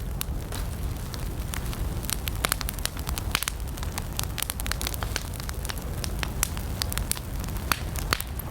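Wood fire burning, with frequent sharp, irregular crackles and pops over a low steady rumble of the flames.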